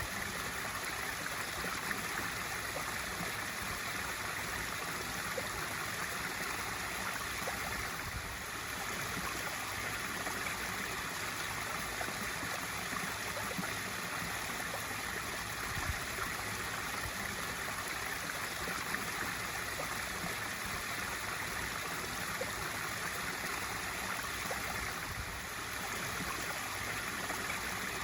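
Water from a pool waterfall feature splashing steadily into the pool, an even rushing and babbling with small brief dips in level.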